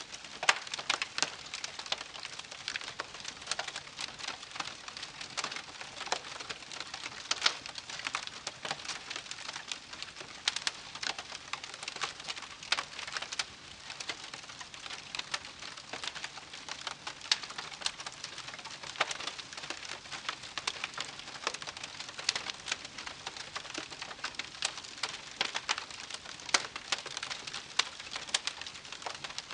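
Wood campfire crackling: an unbroken stream of irregular sharp pops and snaps over a soft hiss.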